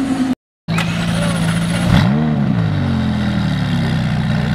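McLaren supercar's twin-turbo V8 idling, with one quick rev blip about two seconds in that rises and falls back to a steady idle. Near the start, another engine's idle is cut off by a moment of silence.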